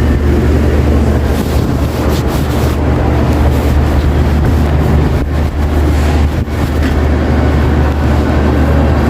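Supermarket ambience dominated by a steady low hum, with a faint haze of indistinct store noise over it.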